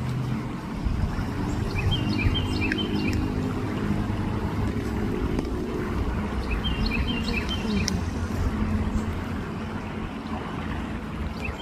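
Creek water and wind rumbling steadily on the microphone. Three times, about five seconds apart, a bird sings a short quick phrase of chirps.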